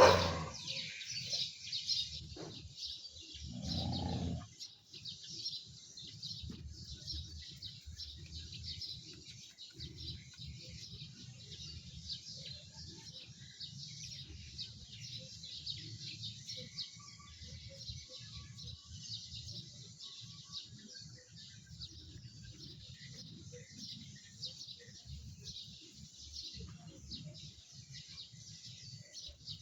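Many small birds chirping continuously in a dense, high-pitched chorus over low rustling. A short, louder low sound comes about four seconds in.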